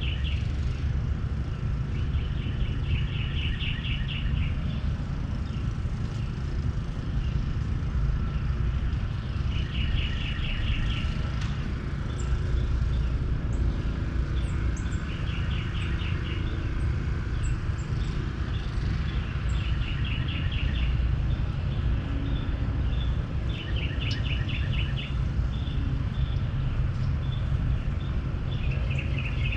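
Outdoor ambience: a steady low rumble with a songbird repeating a short, fast trill about every five seconds.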